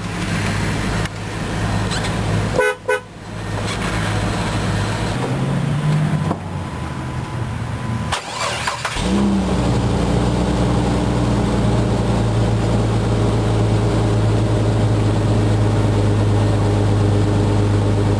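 2004 Jeep Grand Cherokee engine idling just after a jump start from a dead battery. It runs with a steady hum, breaks off briefly twice, then settles into steady running from about nine seconds in.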